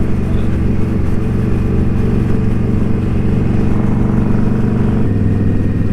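Indian Scout Bobber V-twin motorcycle engine running steadily while riding, with road and wind noise; the engine note shifts about five seconds in.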